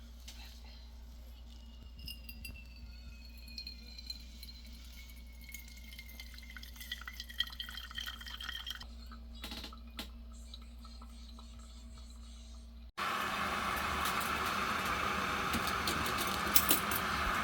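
Coffee being made: liquid trickling and dripping into a cup, with slowly falling tones and light clinks of glass. About thirteen seconds in it cuts abruptly to a louder steady rushing noise.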